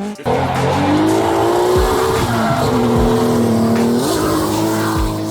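Hill-climb race car engine at high revs, its pitch rising and shifting as it climbs through the gears. Deep bass thumps of music play underneath.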